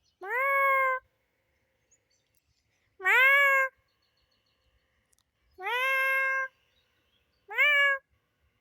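Domestic cat meowing four times, a couple of seconds apart; each meow slides up in pitch and then holds steady.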